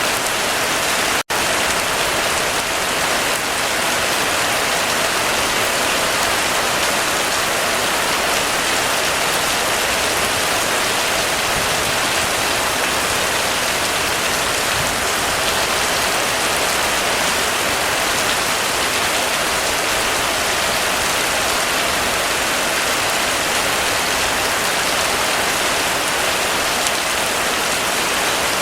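Heavy rain falling steadily, an even hiss, with a momentary dropout in the sound about a second in.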